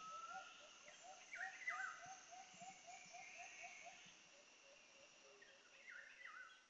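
Faint forest ambience: birds calling in pairs of swooping whistled notes, twice, over a run of quick chirps at about four a second that fade out about four seconds in.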